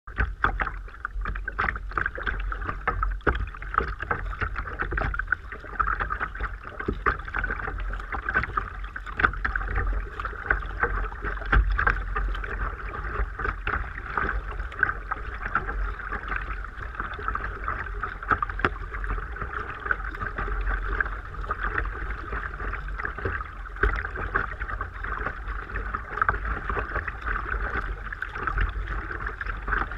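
Sea kayak underway: water sloshing and splashing against the hull with paddle strokes, many small irregular splashes over a steady wash and a constant low rumble.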